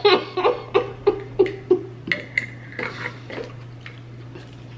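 Close-miked chewing of a bite of anchovy pizza: a quick run of mouth sounds about three a second that dies down after about two seconds.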